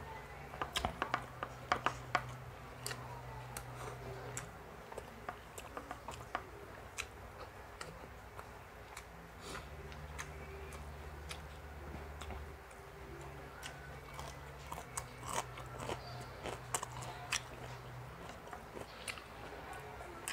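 A person chewing and biting food close to the microphone, with scattered sharp clicks and crunches. A low hum comes and goes underneath.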